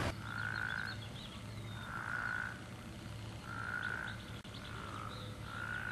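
A frog calling outdoors, a short steady-pitched call of about half a second repeated about every one and a half seconds, four times, with faint bird chirps in between.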